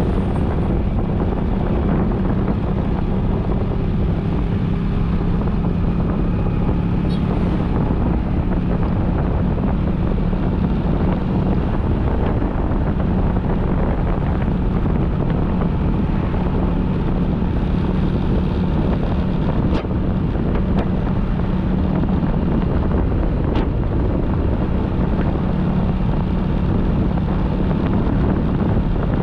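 Motorcycle engine running at a steady speed while riding, with wind rushing over the microphone; the engine hum stays even throughout.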